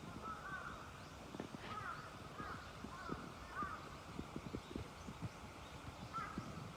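Crows cawing, about half a dozen short calls, over footsteps on a trail.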